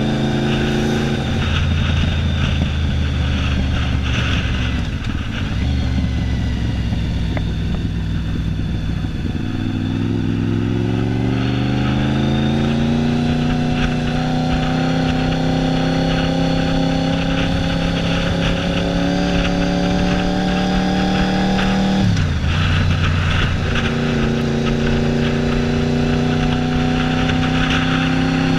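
Honda VFR750F's V4 engine, running with no muffler, on the move: low revs at first, then a long rising pull about a third of the way in that levels off and holds steady, a brief drop in revs at a gear change about three quarters of the way through, and revs climbing slowly again after it.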